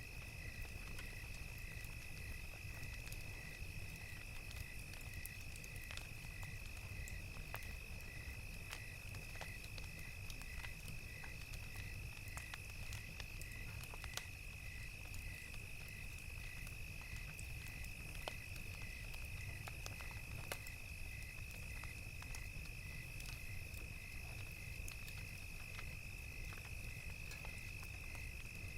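Night ambience of crickets: a steady high insect trill with a cricket chirping in an even rhythm of about two to three chirps a second, over the scattered sharp crackles of a wood fire and a low rumble.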